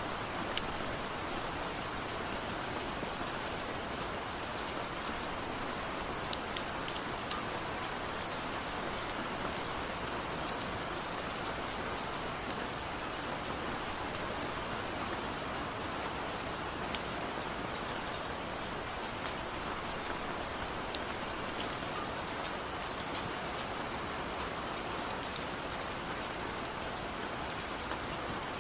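Steady rain falling, a constant even hiss with scattered sharper drop ticks.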